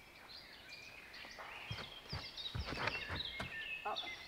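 Small birds singing and chirping in woodland, with a few soft footsteps in the middle.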